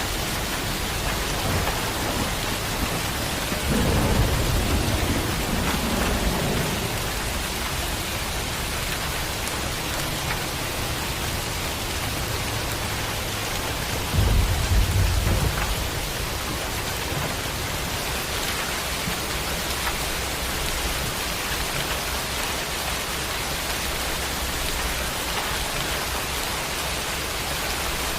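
Steady heavy rain, with thunder rumbling twice: a rolling rumble about four seconds in and a louder, sharper clap about fourteen seconds in.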